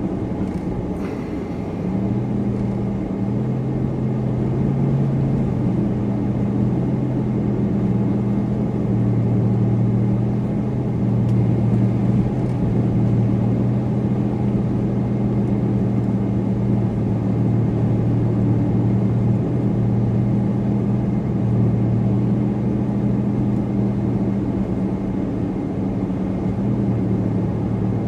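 Supercharged car driving along: a steady engine hum with constant road and tyre noise, the engine's pitch stepping up or down slightly every few seconds.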